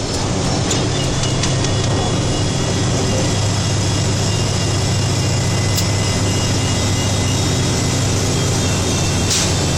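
Snowplow truck's engine and road noise heard from inside the cab: a steady low drone, with a short hiss near the end.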